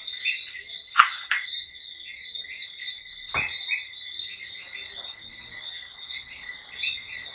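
Steady, high-pitched, rhythmic insect chirping in the background, with two sharp clicks, about a second in and near the middle.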